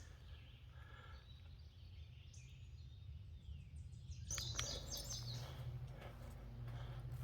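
Wild birds calling against a low steady rumble. About four seconds in, a quick run of short, high chirping notes stands out.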